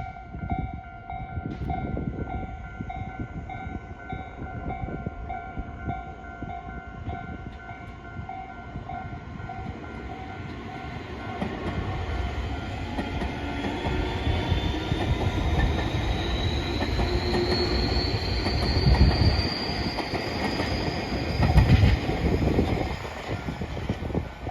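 A Japanese level-crossing alarm rings in a steady, pulsing repeat. Then a Tobu 60000 series electric train comes through the crossing, its motors whining and rising in pitch as it accelerates. Its wheels rumble and thud over the rails, loudest near the end, before the rumble eases.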